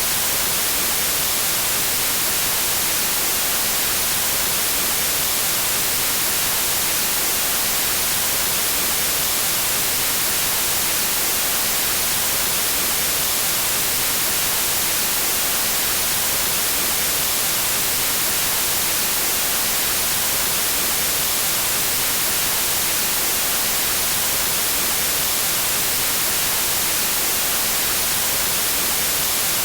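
Pure white noise: a steady, even hiss, strongest in the high frequencies, with no change over time.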